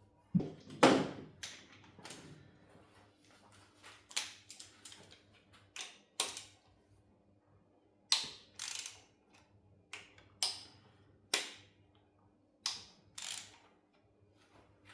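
Irregular sharp metallic clicks and knocks of tools and parts being handled while a Suzuki F6A engine is stripped down. The loudest is a heavier clank about a second in.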